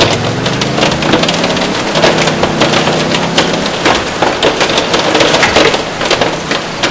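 Hail and heavy rain pelting a moving car, a dense clatter of sharp hits over a steady hiss of rain. In the first couple of seconds the car's engine rises in pitch as it speeds up.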